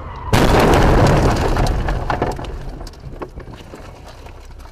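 Vehicle collision: a sudden loud impact about a third of a second in, followed by crunching and a scatter of sharp cracks and clicks of breaking debris that die away over about two seconds.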